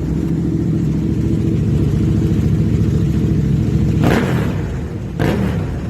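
Superbike engine idling steadily through its exhaust, with two short throttle blips about four and five seconds in.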